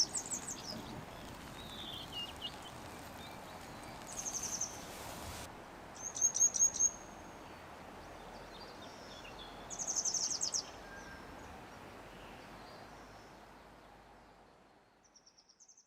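Wild birds singing: several short, high trilled phrases a few seconds apart over a steady outdoor background hiss, which fades out near the end.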